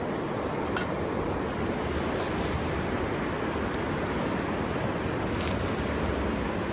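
River water rushing steadily, an even flowing noise.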